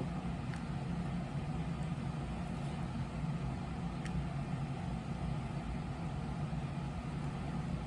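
Steady low mechanical hum, with two faint clicks, one about half a second in and one about four seconds in.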